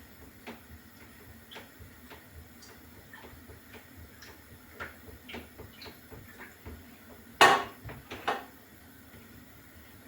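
A spoon knocking lightly and irregularly against the side of a container while Guinness punch is stirred, with two louder knocks near the end.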